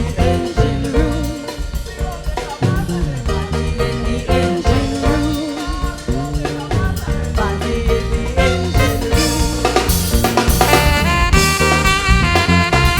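Big band playing an instrumental passage of a soca jazz arrangement, the drum kit prominent under the horns.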